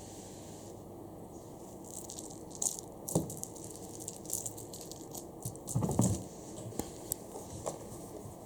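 Scattered rustles and scrapes with a couple of soft thumps, about three and six seconds in: a cat scrabbling about in a cardboard beer box.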